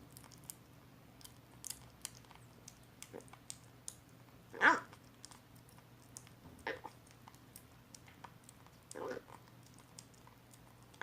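Rescued kitten making short mewing cries while eating its first weaning food, three times, the first loudest, over small soft clicking mouth sounds of eating.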